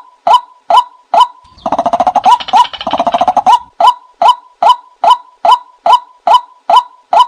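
Watercock calling: a steady series of short hollow notes, about two and a half a second, broken about one and a half seconds in by a fast rattling run of notes lasting about two seconds before the even series resumes. This is a call recording played to lure watercocks.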